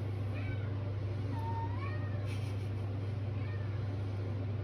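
Domestic cat meowing softly three times, the middle meow the longest, over a steady low hum.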